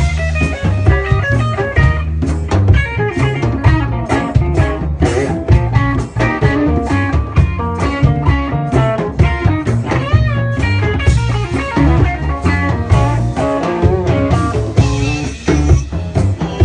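Live band playing an instrumental mambo in B flat: guitar lines over bass and drum kit, with no vocals.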